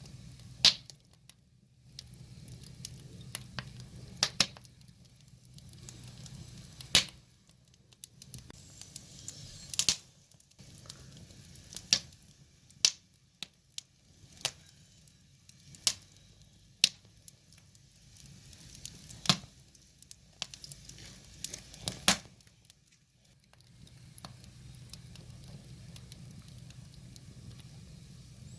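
Firewood fire burning, with sharp crackles and pops at irregular intervals of one to three seconds.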